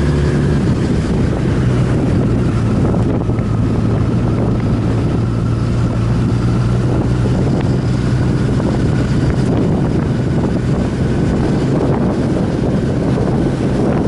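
Motorcycle engine running at a steady speed under heavy wind noise rushing over the microphone, as heard while riding.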